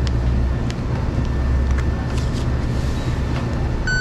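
BMW M340i's turbocharged straight-six idling steadily with a low rumble. A few faint clicks are heard, and a short electronic beep starts right at the end.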